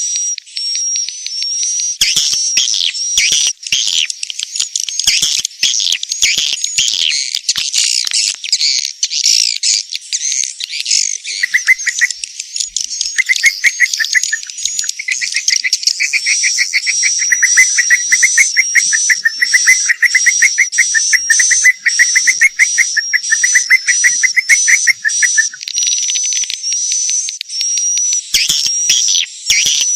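Recorded chirping and twittering of edible-nest swiftlets played as a swiftlet-house call lure, with a short high whistle repeated about twice a second. From about eleven seconds in, a fast, lower rattling trill runs for about fifteen seconds.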